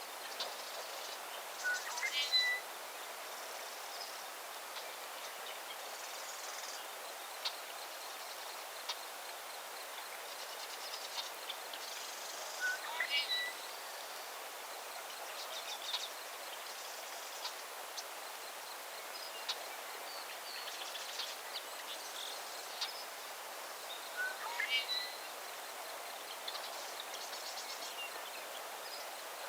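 A songbird repeats the same short song phrase three times, about eleven seconds apart, over a steady hiss of natural background noise, with scattered faint high chirps and ticks.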